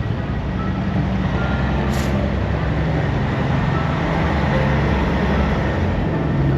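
Heavy truck engines running with a steady low rumble, with one brief click about two seconds in.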